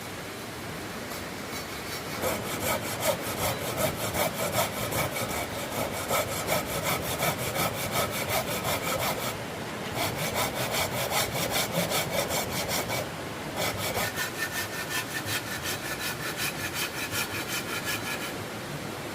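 Hand saw cutting through wood in quick back-and-forth strokes, about three a second, with a ringing tone from the blade. It goes in three bouts, with short pauses a third and two thirds of the way through.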